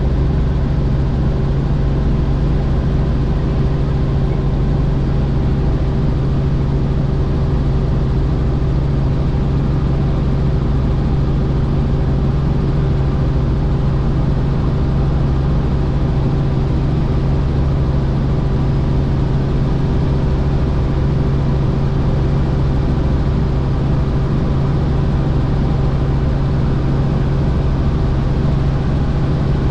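Helicopter running steadily in flight: a constant engine and rotor hum that does not change in pitch or level.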